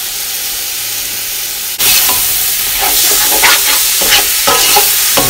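Onion, tomato and spice masala sizzling in oil in a stainless steel pot as curd is added. About two seconds in, the sizzle suddenly gets louder. It is then broken by irregular scrapes of a metal ladle stirring the curd in against the pot.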